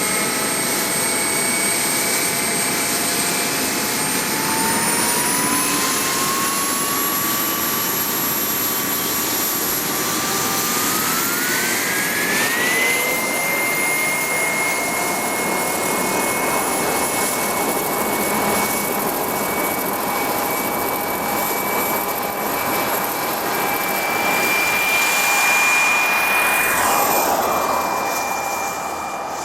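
WREN model gas turbine in a quarter-scale Lama helicopter, whining loudly as it spools up: its pitch rises twice, about five seconds in and again around twelve seconds, then holds steady at the higher speed.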